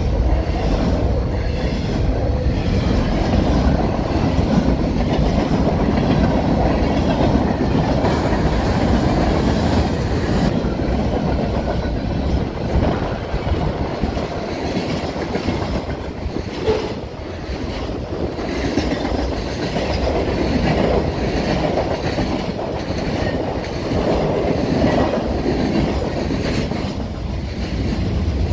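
Canadian Pacific train passing at speed: the steady rumble and clatter of its cars rolling along the rails.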